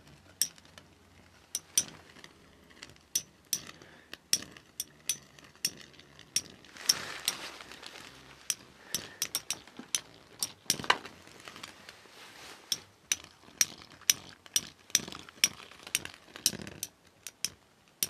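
Launched metal-wheel Beyblade spinning tops battling, striking each other in a rapid, irregular run of sharp metallic clicks and clinks, with a couple of brief grinding scrapes.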